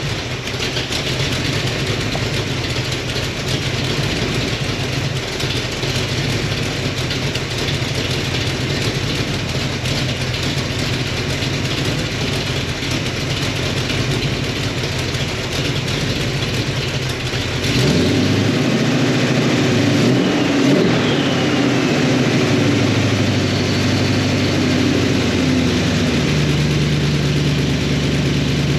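Freshly swapped Chrysler LA small-block V8 (a 318 stroked to 349) with long-tube headers and Cherry Bomb-style mufflers, running just after its first start. It runs steadily at first. About 18 seconds in it gets louder and its pitch shifts up and down for several seconds, then it settles into a steady run again near the end.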